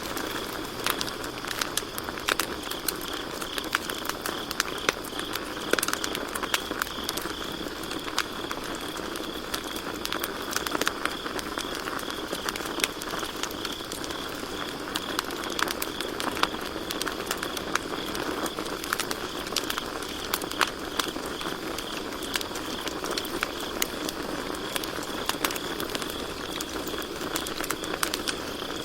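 Campfire crackling, with frequent sharp pops over a steady hiss, while crickets chirp in an even, high, pulsing trill.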